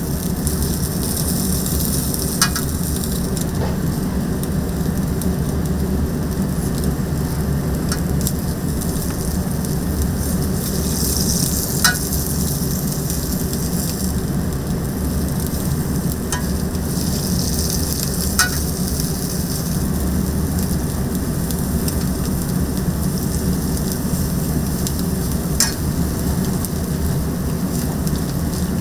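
Chicken sizzling as it cooks, a steady hiss with a few sharp pops scattered through, over a steady low hum.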